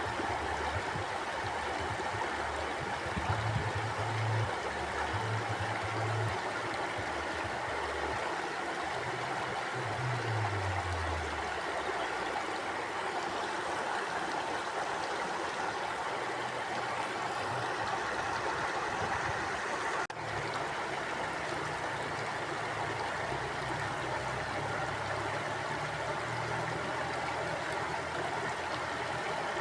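Mountain river flowing steadily, an even rush of water over rocks, with low rumbles coming and going underneath and a momentary dropout about two-thirds of the way through.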